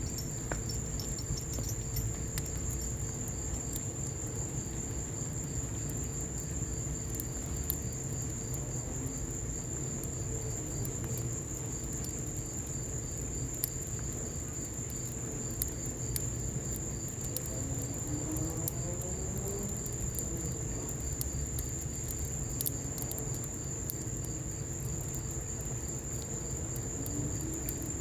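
Crickets chirring in one steady high-pitched trill over a low, even wash of rain, with scattered small crackles and pops from a wood fire.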